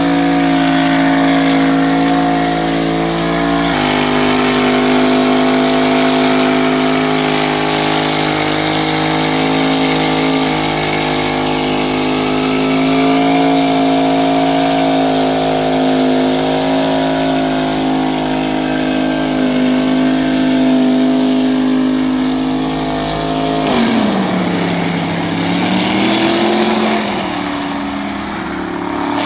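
Car engine held at high revs during a burnout competition run, its note steady for most of the time. About three-quarters of the way through the revs drop sharply and waver up and down before picking up again.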